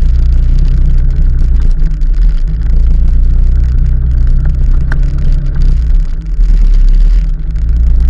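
Steady, loud low rumble of a moving vehicle during a ride.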